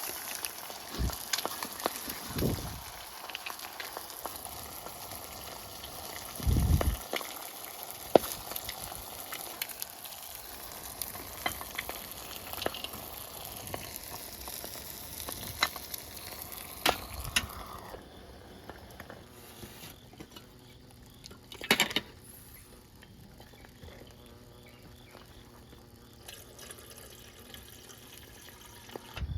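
Food sizzling as it cooks, a steady hiss with scattered sharp crackles and a few low thumps. About two-thirds of the way through the sound drops to a quieter, calmer sizzle.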